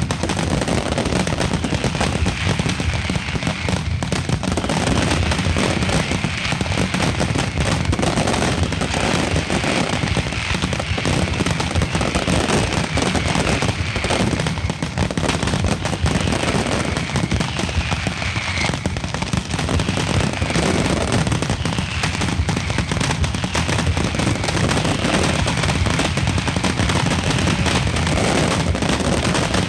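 Night mascletà fireworks: a dense, unbroken barrage of firecracker bangs and crackling, with faint falling whistles now and then.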